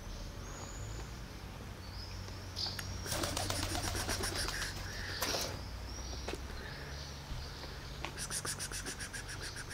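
Small birds chirping outdoors, with two spells of rapid chattering, one about three seconds in and a faster run of ticks near the end, over a steady low hum.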